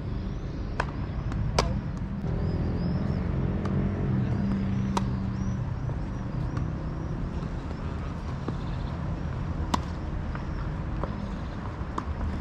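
Tennis balls being struck by rackets and bouncing on the court: a handful of sharp, separate pops spread out, over the steady low hum of a vehicle engine that is loudest in the first half.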